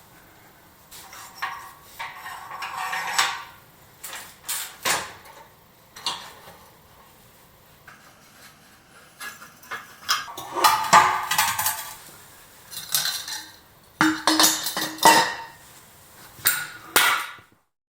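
Metal tools and parts clanking and knocking in irregular bursts, as in hand work on a motorcycle. The sound cuts off abruptly near the end.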